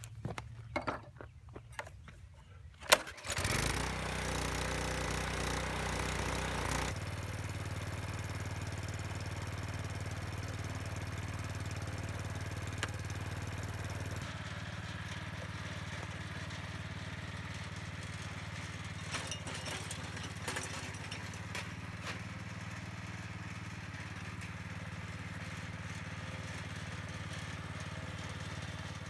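Earthquake rear-tine tiller's small gasoline engine being test-run: after a few light handling clicks it is pull-started about three seconds in, catching at once with a sharp bang. It runs fast for a few seconds, then settles to a lower, steady run that eases slightly again about halfway through.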